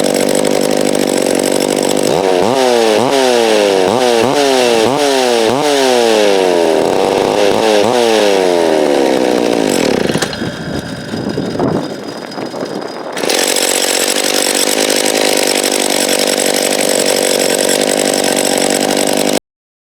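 Freshly rebuilt McCulloch Timber Bear two-stroke chainsaw running during break-in. Its engine is revved up and dropped back about half a dozen times in quick succession, runs lower and quieter for a few seconds, then runs steadily again until it cuts off suddenly near the end.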